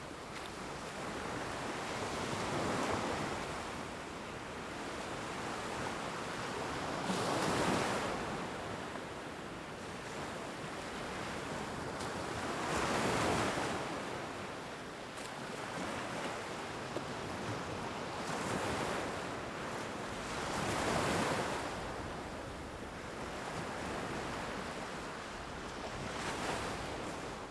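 Ocean surf, waves washing in and swelling and fading every few seconds.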